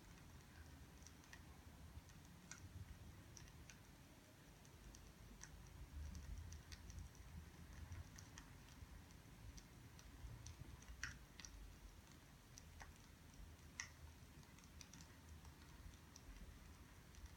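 Faint, irregular crackling and popping of burning firewood, with a few sharper pops, over a low rumble.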